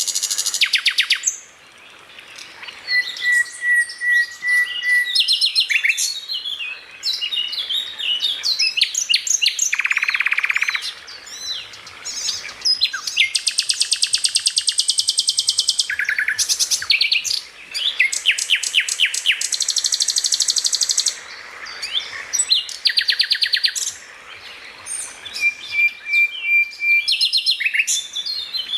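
Songbird singing a long, varied song of quick chirps, rapid buzzy trills and held whistled notes, with short pauses between phrases: a 'masteran' recording used to teach caged songbirds.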